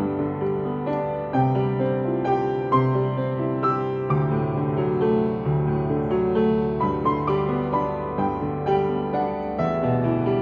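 Piano playing a slow, gentle tune, melody notes struck one after another over held bass notes.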